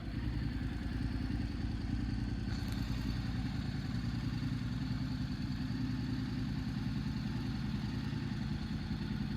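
Honda NC750S DCT's parallel-twin engine idling steadily.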